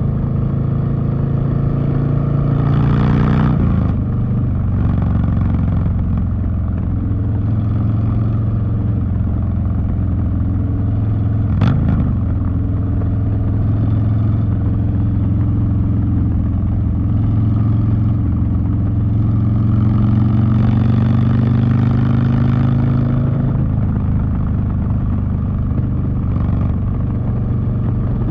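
Harley-Davidson Street Bob's V-twin engine running through a TBR 2-into-1 exhaust under way, its pitch climbing under throttle and dropping back twice. There is one sharp click about twelve seconds in.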